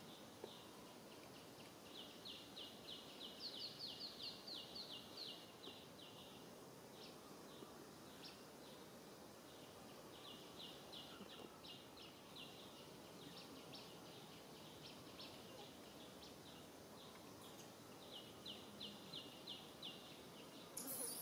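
A bird calling in runs of quick, evenly spaced high notes, about five a second, three times over faint outdoor background noise. A short hiss comes right at the end.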